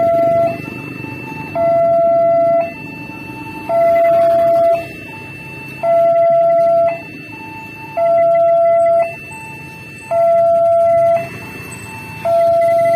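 Railway level crossing warning alarm sounding: an electronic two-tone signal alternating evenly between a louder low tone and a quieter higher tone, each held about a second.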